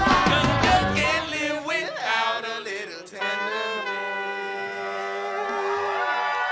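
Live funk band with a horn section finishing a song: drums and band playing, then stopping, and from about three seconds in a long final chord held by the horns and voice.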